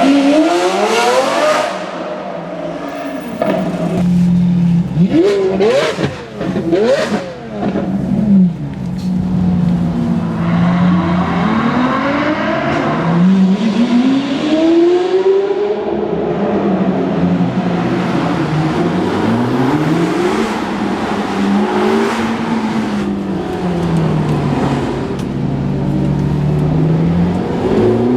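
Novitec-tuned Lamborghini and Ferrari supercar engines accelerating hard and backing off in repeated rising and falling sweeps of pitch. A loud fly-by comes about five to eight seconds in.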